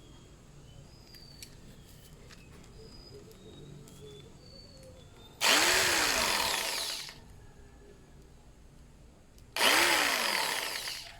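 Mailtank electric jigsaw run twice in short bursts of about a second and a half each. Each burst starts suddenly, with the motor speeding up and then winding down as the trigger is released.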